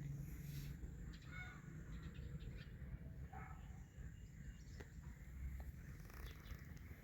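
Faint farm ambience: a few short, scattered bird chirps over a low, steady background rumble.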